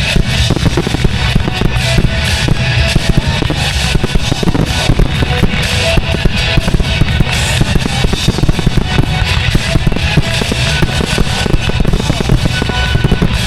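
Rock music with drums, mixed with continual firework bursts and crackling from a pyromusical display.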